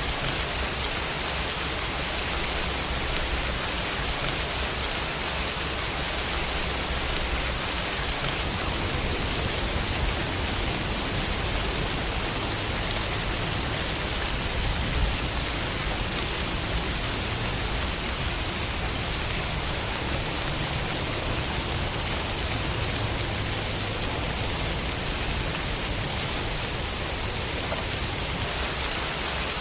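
Steady rainfall, a continuous even hiss of rain falling on a surface.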